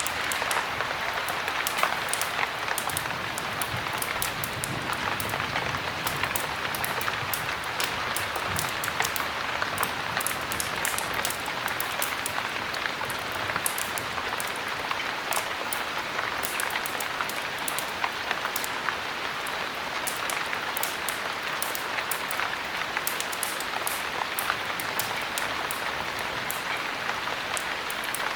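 Steady heavy rain, an even hiss of drops, with frequent sharp crackles and pops from a wood fire in a fireplace mixed through it.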